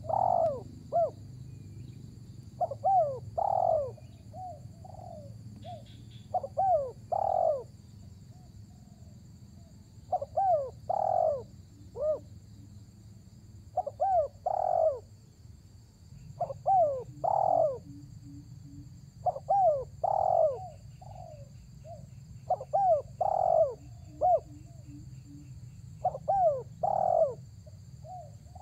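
Spotted dove cooing its song, a short phrase of rising coos repeated about every three to four seconds, over a steady low hum.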